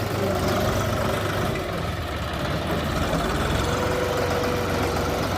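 Mahindra 475 DI tractor's four-cylinder diesel engine running steadily at low revs.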